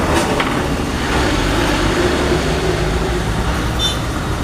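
A steady low mechanical rumble, with a brief sharp metallic clink near the end.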